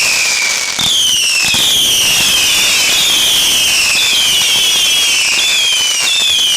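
A 100-shot fireworks cake firing its finale in quick succession. The shots give overlapping whistles that fall in pitch, about one or two a second, with a few sharp pops among them.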